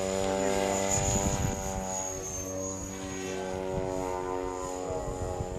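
Radio-controlled model helicopter flying: a steady hum of rotor and motor with a high thin whine above it, its pitch wavering a little.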